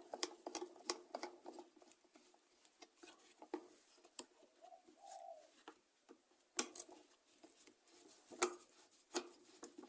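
Scattered light clicks and taps of a screwdriver and small plastic and metal parts as the screws are done up on a leaf blower's carburettor and air filter housing, with a few sharper knocks in the second half.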